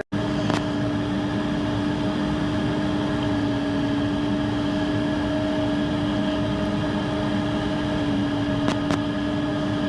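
F-16 fighter jet idling on the ground after engine start: a steady hum with one constant tone over an even rushing noise, holding level without change.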